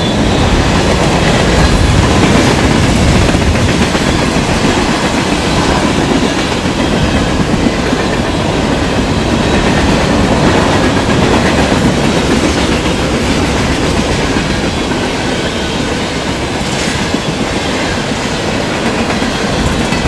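Train cars passing close by at about 60 mph: a loud, steady rumble with wheels clacking over the rail joints, and wind from the train buffeting the microphone.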